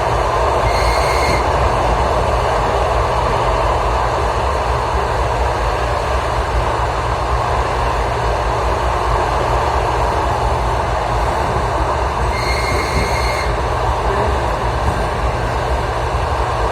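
Passenger train running along the track, heard from inside the carriage as a steady loud rumble. Twice, about a second in and again about twelve seconds in, a short high-pitched squeal rises over it, typical of wheels squealing against the rail.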